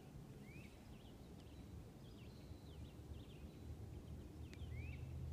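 Faint birdsong: scattered short chirps and a couple of quick rising notes, over a low steady rumble that grows slightly louder near the end.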